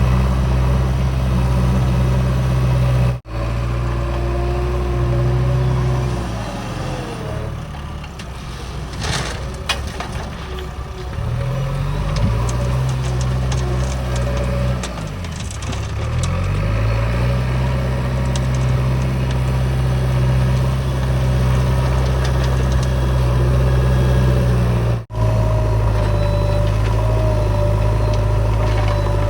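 Backhoe loader's heavy diesel engine running under load. Its pitch sags and then climbs again as the machine works, and there is a short spell of clatter about ten seconds in. The sound cuts out briefly twice.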